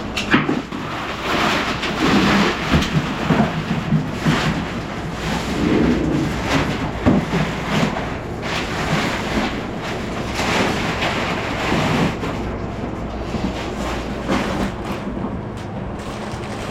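Wind buffeting the microphone: a loud rushing rumble that swells in irregular gusts.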